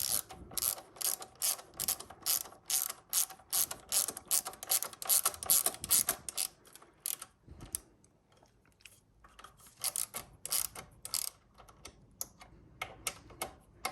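Ratchet wrench clicking in quick, sharp clicks as it turns the brake caliper mounting bolts snug, with a short pause about halfway through.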